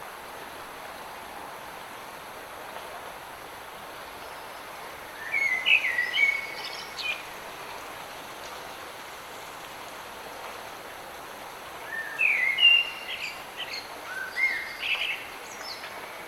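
Steady hiss of light rain in a forest, with a songbird singing two short bursts of quick chirping notes, one about five seconds in and another about twelve seconds in.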